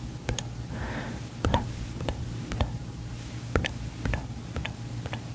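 Close-up ASMR mouth sounds: irregular wet clicks with a soft breathy whisper-like sound about a second in.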